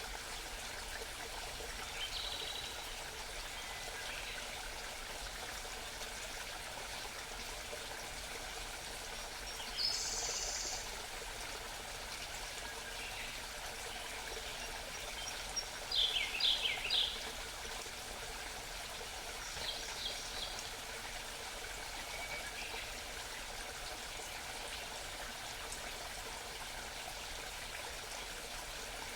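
A small mountain stream babbling steadily, with wild birds calling now and then over it: a short call about two seconds in, another around ten seconds, a brief run of quick falling notes past the halfway mark that is the loudest sound, and a few faint chirps soon after.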